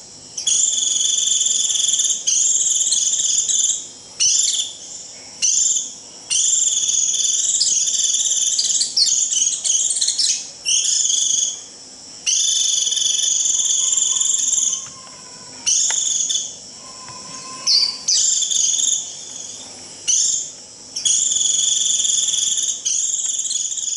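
White-eye giving its shrill 'rít' flock-calling call: a series of long, even, high-pitched buzzy notes, each about one to two seconds long, separated by short breaks.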